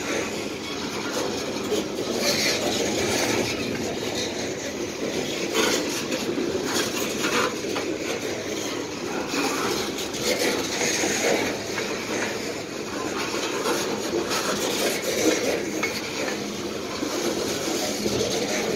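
Aluminum coal hopper cars of a freight train rolling past: a steady rumble and rattle of wheels on rail, with scattered clicks and metallic clanks.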